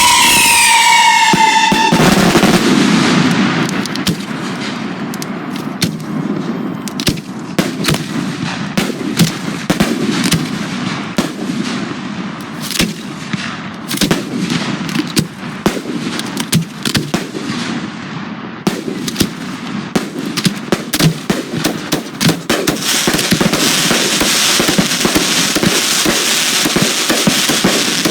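Aerial fireworks display: whistling effects falling in pitch for about the first two seconds, then a run of sharp shell bursts and crackles, thickening into dense continuous crackling near the end.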